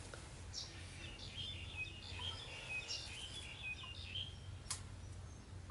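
Faint twittering of small birds, a quick run of high chirps through the middle, over a low steady background hum, with one sharp click near the end.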